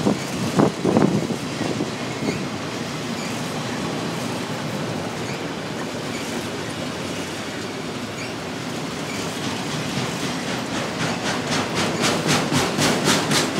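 Freight train of autorack cars rolling past at close range: a steady rumble of steel wheels on rail, with a few heavy clanks about a second in. Near the end, a quick, even clickety-clack of wheels crossing rail joints comes in.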